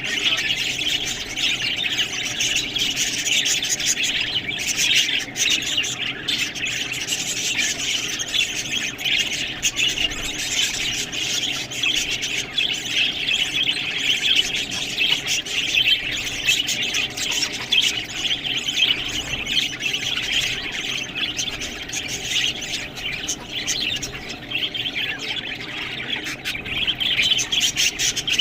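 Budgerigars chattering and squawking without pause, a dense run of short chirps and calls.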